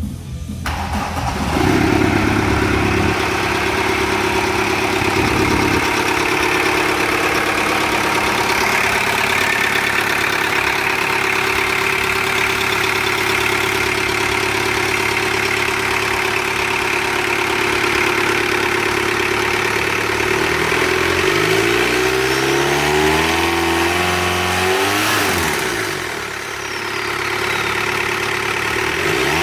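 VW Rabbit Mk1's AAZ 1.9 turbodiesel four-cylinder running on a test fire, idling steadily once it has caught about a second or two in. In the last several seconds it is revved up and down a few times.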